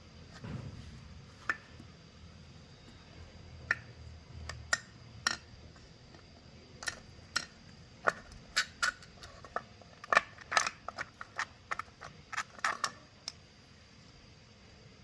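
Irregular series of sharp clicks and light metallic taps from hand tools and small metal parts being handled, sparse at first and coming quickly from about eight seconds in.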